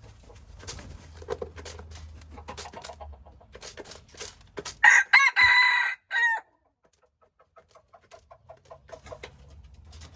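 A rooster crows once, loud, about five seconds in. Around it come faint clucks and scattered light clicks.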